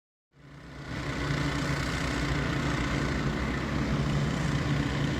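Several gasoline-engine water pumps running steadily, a constant low engine drone. It fades in over the first second.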